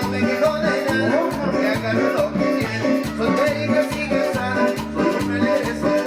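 Live Latin dance music from a keyboard-led group, with a steady pulsing bass beat under a melodic keyboard line.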